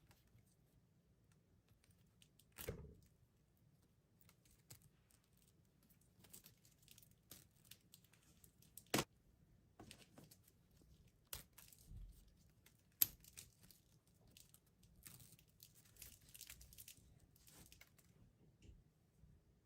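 Faint tearing and crinkling of Warheads candy packaging being opened by hand, broken by a few sharp clicks and taps about 3, 9 and 13 seconds in.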